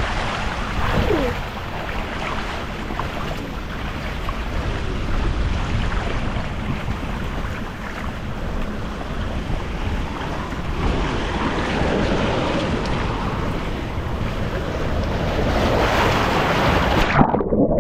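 Water rushing down a water slide under a rider on a mat, with wind buffeting the microphone: a steady loud rush that swells in the last few seconds, then its hiss drops away suddenly near the end.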